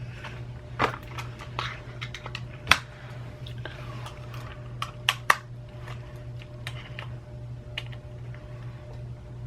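Irregular sharp clicks and taps of hard plastic parts being worked on during a computer mouse repair, the loudest about three seconds in and a quick pair around five seconds, over a steady low hum.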